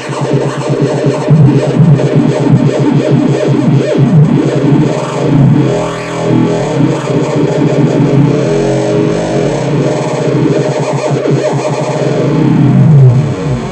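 Modular synthesizer lead: an FM-modulated saw-wave oscillator run through distortion, echo delay and a filter, playing a fast repeating sequenced pattern whose tone keeps shifting, with a sweep in pitch near the end.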